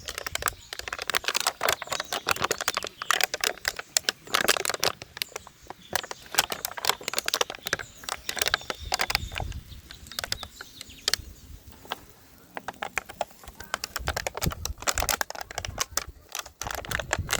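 Hands working material into a hand fan: a rapid, irregular run of crackles and clicks as it is bent, folded and pressed, with a few short pauses.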